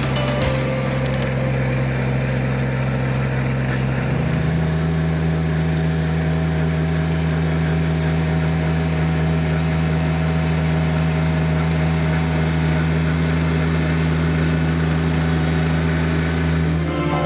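Mini loader's engine running steadily, its pitch stepping up about four seconds in as the revs rise and then holding.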